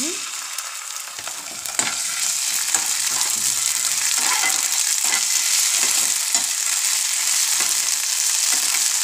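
Sliced onions and ginger-garlic paste sizzling in hot oil in a metal pan, stirred with a metal spoon that scrapes and knocks against the pan. The sizzle grows louder about two seconds in.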